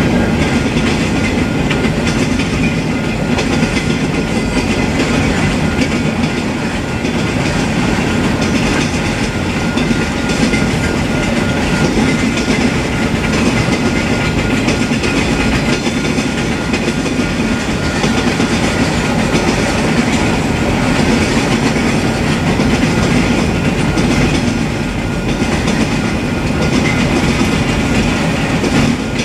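Freight cars of a mixed manifest train (boxcars and autoracks) rolling past steadily: a continuous, even noise of steel wheels running on the rail.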